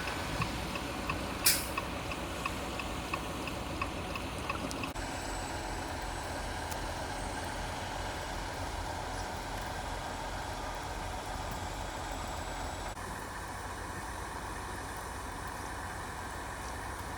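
Trucks and cars running on a snowy highway, a steady low engine and road noise. In the first few seconds an even ticking comes about twice a second, with one sharp click.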